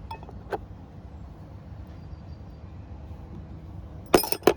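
Sharp metallic clinks of loose engine parts knocking together, loudest in a quick pair near the end, with a fainter click about half a second in, over a steady low rumble in the background.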